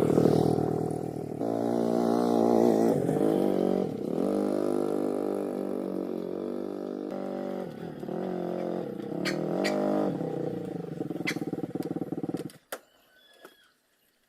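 An engine running, its speed rising and falling several times, with a few sharp clicks late on. It cuts off suddenly near the end.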